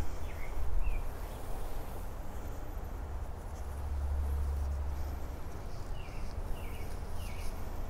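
A bird chirping in short, separate notes, a few near the start and a cluster near the end, over a steady low rumble that swells about four seconds in.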